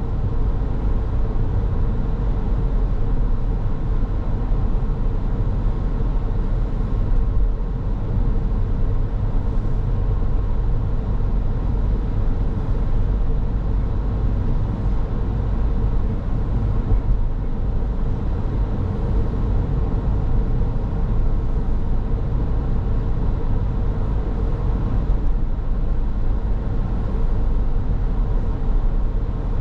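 Steady driving noise of a car on the road: a low rumble of tyres and engine with a faint constant hum.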